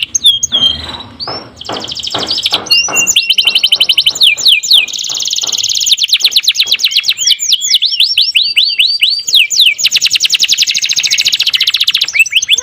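Domestic canary singing a fast, loud song: long rolling trills of rapidly repeated high notes, changing phrase every second or two, with quick swooping whistled notes between the rolls.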